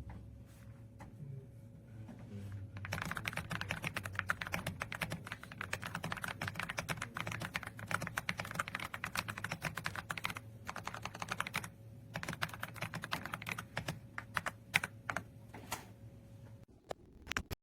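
Typing on an AULA F99 mechanical keyboard: a few scattered key presses, then about three seconds in fast, continuous typing with a couple of short pauses, thinning to a few separate keystrokes near the end.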